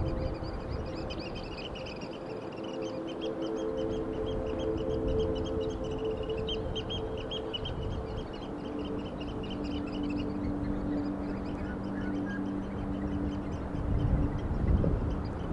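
Birds chirping busily over slow, held ambient music chords and a steady rushing noise. The chords shift about halfway through, and the chirping fades out about two-thirds of the way in.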